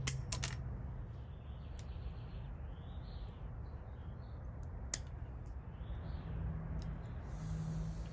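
Bonsai shears snipping small spruce branches: a few sharp, irregularly spaced snips, the loudest just after the start and about five seconds in.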